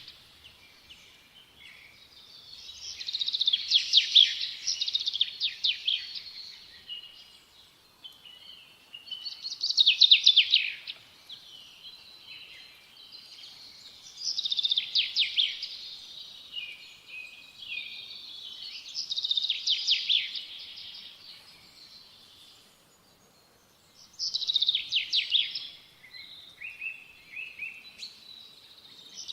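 A small songbird singing the same kind of phrase over and over: bursts of rapid high notes about two seconds long, returning every four to five seconds, with softer chirps between them.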